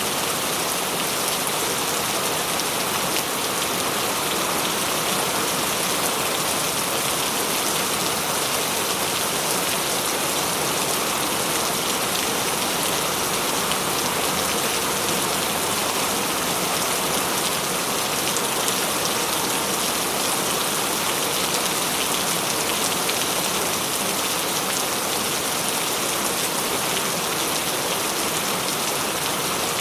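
Tropical rain falling steadily, an even hiss of many drops with no let-up.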